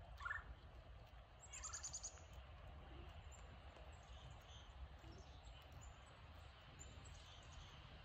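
Faint chirps from small birds, with a short, rapid high trill of about eight notes about a second and a half in, over a low steady background rumble.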